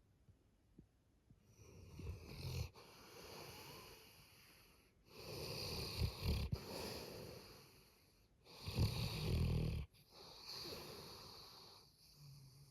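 Black Labrador snoring loudly in sleep: three loud snoring in-breaths about three and a half seconds apart, each followed by a long, softer hissing out-breath.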